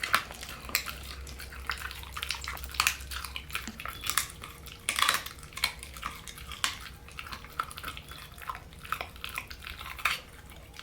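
Pit bull puppy eating raw meat and kibble from a food bowl: irregular crunching, smacking and clicks of teeth against food and bowl.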